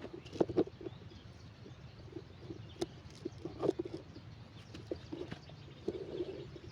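Birds calling outdoors, including a dove cooing, with a longer low coo about six seconds in and a few faint clicks between the calls.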